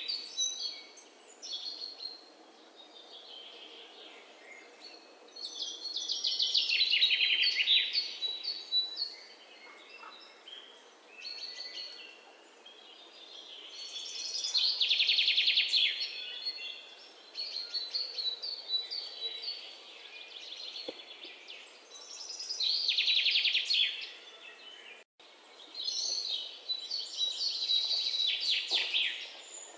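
Wild birds singing: a rapid, trilled song of about two seconds, falling slightly in pitch, repeats roughly every eight seconds, with short high chirps from other birds in between.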